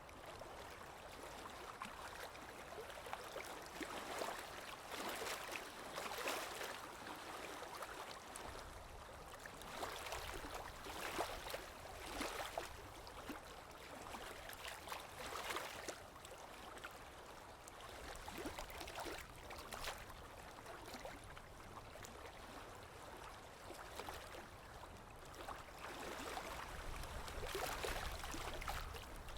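Small waves lapping and breaking on a shore, a steady wash of water with a fresh surge every second or two.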